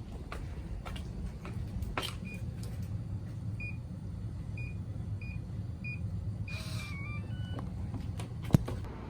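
Electronic beeps: about six short beeps at one pitch, half a second to a second apart, then a brief hiss and a short stepped tune of a few notes, over a steady low hum.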